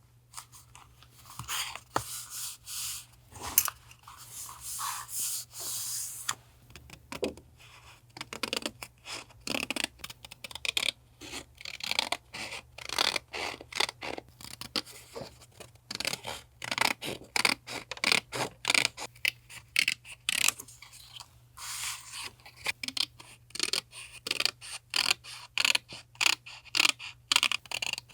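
Paper being handled while making a journal collage: irregular scraping, rustling and short clicks of paper and tools on a desk. A faint, steady low hum runs underneath.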